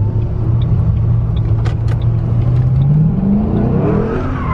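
Car engine running at a steady drone, then revving up with a smooth rise in pitch from about three seconds in, peaking near the end.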